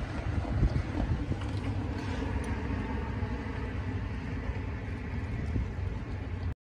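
Diesel-hauled NJ Transit commuter train, with EMD GP40 locomotive 4218, rumbling steadily as it runs away into the distance, with some wind buffeting on the microphone. The sound cuts off suddenly near the end.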